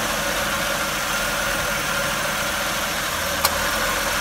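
Chevy Impala engine idling steadily, heard from underneath the car, with one short sharp click about three and a half seconds in.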